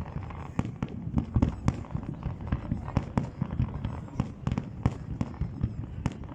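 Fireworks display going off: a dense string of sharp bangs and pops, several a second, over a continuous low rumble of further bursts.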